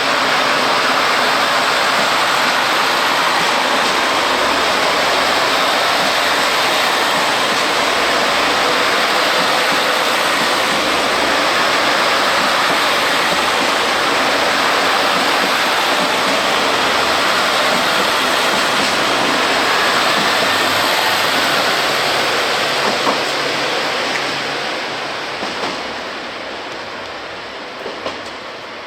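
A train running through the station with a steady, loud rushing noise that fades away over the last few seconds as it pulls away, with a few light clicks from the wheels near the end.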